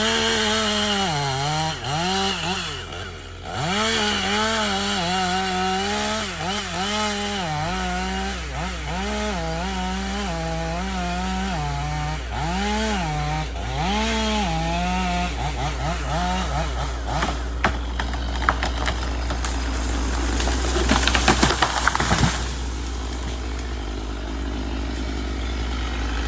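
Chainsaw engine revving up and down in short repeated bursts, then falling silent. A run of sharp cracks and knocks follows in the last third, over a steady low engine drone that runs underneath throughout.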